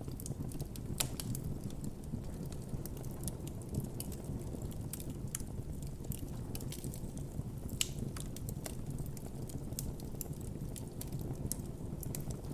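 Wood campfire burning, with irregular crackles and pops over a low steady rush of the flames. Two sharper pops stand out, about a second in and near eight seconds.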